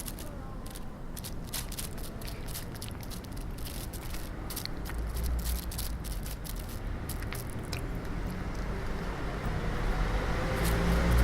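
Dry fallen leaves crackling and rustling underfoot in scattered, irregular crunches. A low rumble of passing road traffic swells twice, about halfway through and near the end.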